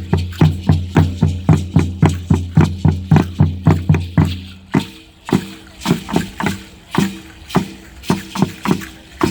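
Percussion for a Mexica danza: a drum beating a steady pulse of about three strokes a second with a deep boom, backed by rattling. A little past halfway the deep boom drops out and the beat goes on lighter and less even.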